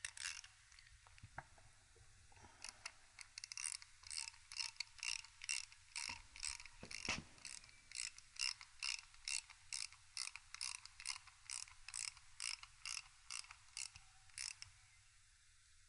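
Socket ratchet wrench clicking in a steady run, about two clicks a second, as a fastener on the engine is tightened.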